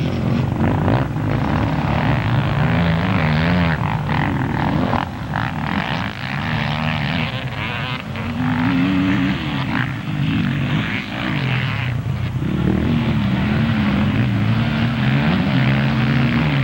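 Motocross bike engines revving, their pitch rising and falling again and again as the throttle opens and closes.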